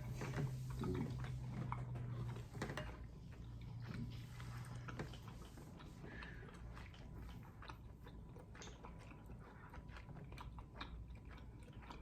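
Close-up eating sounds of someone eating seafood in garlic butter sauce: chewing and biting with many small, irregular wet clicks and smacks.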